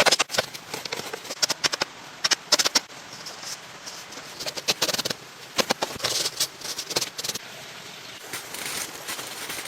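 Bursts of rapid clicking and rattling, a new burst every second or so, over a low background hiss.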